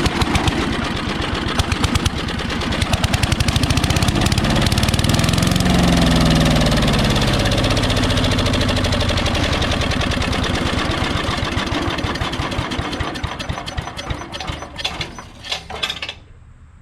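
Old 8 hp Briggs & Stratton single-cylinder engine on a Craftsman chipper shredder fires up on carb cleaner sprayed into the carburettor and runs. It speeds up a few seconds in, then slows, sputters and stops near the end, as the carb cleaner burns off: a sign that the long-idle engine has spark and compression.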